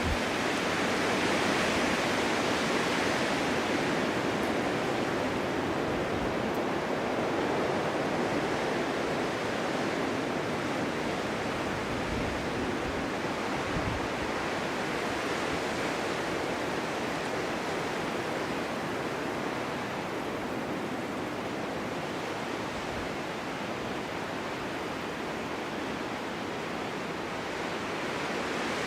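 Snowstorm wind blowing steadily, an even rushing hiss that swells in a gust over the first few seconds and then slowly eases.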